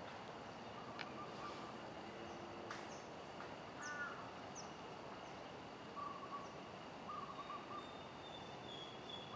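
Faint outdoor ambience: a steady background hiss with short, scattered bird calls and a few high chirps.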